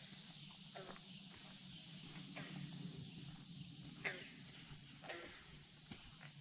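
Steady high-pitched drone of insects over a low, even rush of flowing river water. Short falling calls come every second or so.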